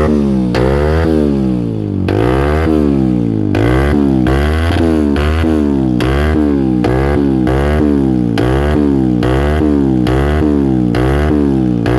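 Yamaha YBR single-cylinder motorcycle engine through an SC Project aftermarket exhaust, revved in quick blips of the throttle, about two a second, each rising and falling in pitch. There is a brief pause in the revving about two seconds in.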